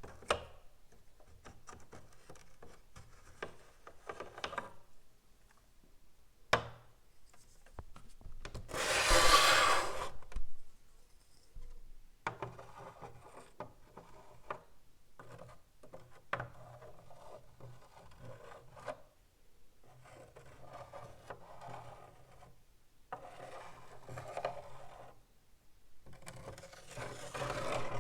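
Chalk writing on a blackboard: stretches of scratchy rubbing strokes with short pauses between them, and a few sharp taps as the chalk meets the board. A louder, longer stretch of rubbing comes about nine seconds in.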